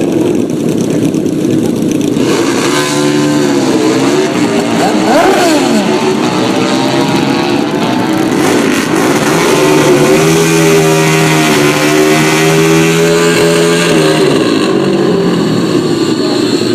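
Drag-racing motorcycle engines running loud at high revs. From about two seconds in the pitch rises and falls several times, then holds steady for a few seconds before dropping away near the end.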